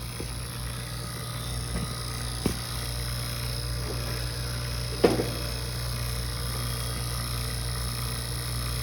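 Rooftop air conditioning units running with a steady mechanical hum, broken by a couple of brief knocks, once about two and a half seconds in and once about five seconds in.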